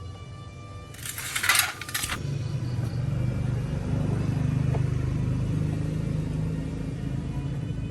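A loud metallic clatter lasting about a second, then a car engine running steadily from about two seconds in.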